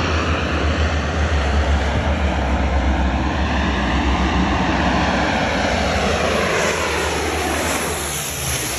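Firefighting aircraft passing low overhead: loud engine noise with a deep rumble, its pitch falling as the plane goes by and fading near the end.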